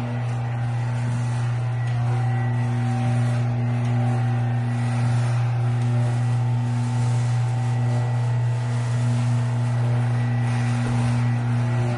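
Motorline KVM110 garage door operator running steadily as it drives a heavy-duty garage door, a constant electric-motor hum with a faint whine above it, stopping abruptly at the end of travel.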